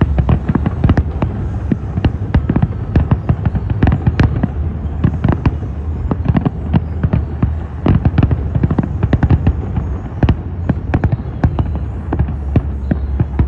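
Aerial fireworks display: a dense, irregular run of sharp bangs and crackles from shells bursting, several a second, over a steady low rumble.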